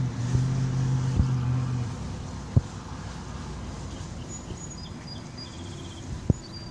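A motor vehicle engine running steadily, then fading out about two seconds in. Faint high bird chirps follow in the second half, with a few sharp knocks.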